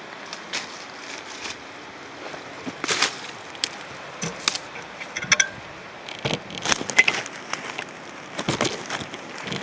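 A person's footsteps crunching unevenly over loose ground on a trail, with scattered sharp cracks and clinks.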